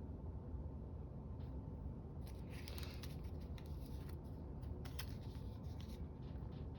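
Paper craft pieces being handled, rustling and crinkling with a few sharp clicks, from about two seconds in until about six seconds in, over a low steady hum.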